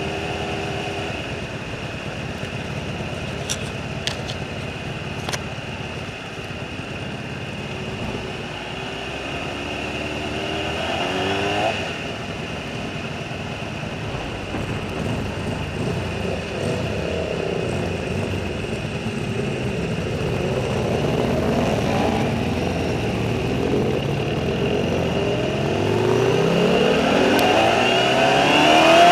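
Sport motorcycle engine heard from a camera on the bike, running at low revs through the paddock, with a rise in revs about eleven seconds in. Near the end the revs climb again and again as it accelerates onto the track.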